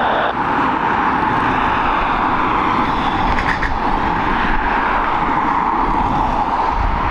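Steady, loud rushing noise of jet airliner engines.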